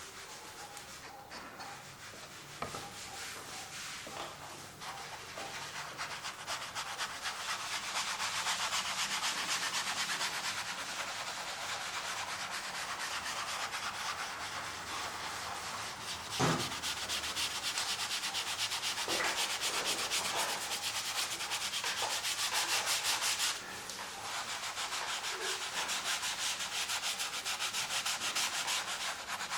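Acrylic paint being worked onto canvas in fast, scratchy scrubbing strokes of a painting tool, getting louder about a quarter of the way in. A single knock sounds a little past halfway.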